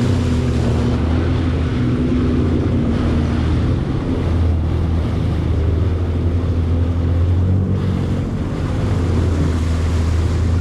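Jet ski engine running steadily under way, with water rushing past and wind buffeting the microphone. The low engine hum grows stronger about four seconds in.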